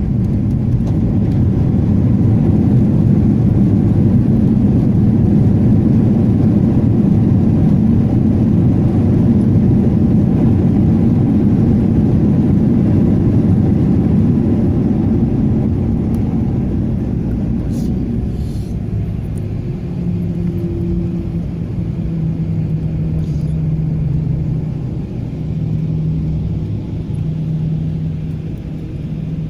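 Airliner cabin noise during the landing roll: a loud rumble of wheels and engines that eases about halfway through as the plane slows, giving way to a steadier, lower engine hum with a low tone while taxiing.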